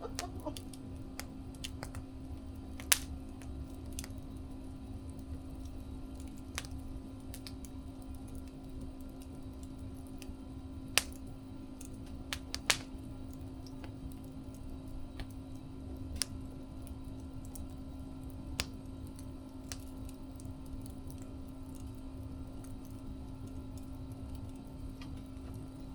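Wood fire burning: a low steady rumble with a steady hum underneath, broken by scattered sharp crackles and pops from the burning wood. The loudest pops come about three seconds in and twice more around eleven and thirteen seconds.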